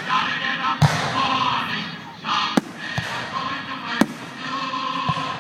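Fireworks display: a run of sharp bangs about a second apart, over a continuous background of crackle and noise.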